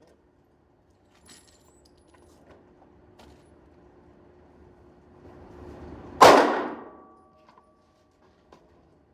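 One loud, sharp metallic bang about six seconds in, preceded by a short rising rush and followed by a brief ringing tone. A few faint clicks come earlier.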